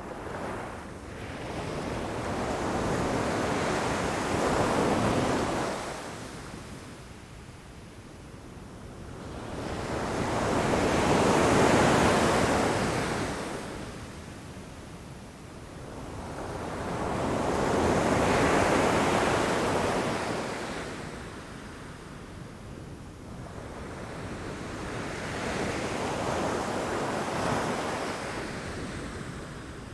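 Ocean waves crashing against rocks: four waves swell and break about seven seconds apart, each rising to a loud wash and then draining away.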